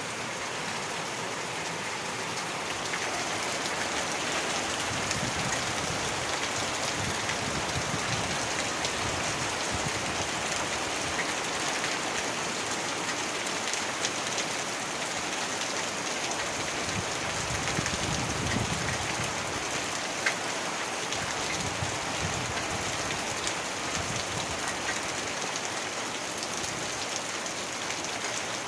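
Heavy rain falling steadily, a dense even hiss of drops with a few sharper drop hits.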